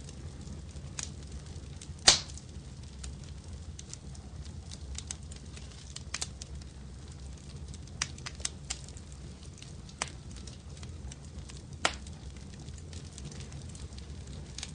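Fire crackling in a fireplace: scattered sharp pops and snaps over a low, steady rumble. There is a loud pop about two seconds in and another near the end.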